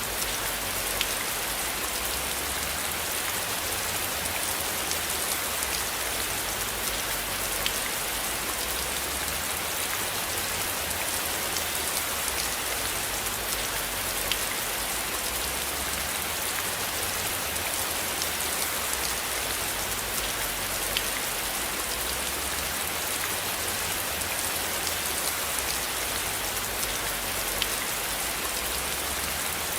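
Steady rain falling: an even hiss, with scattered sharper taps of individual drops.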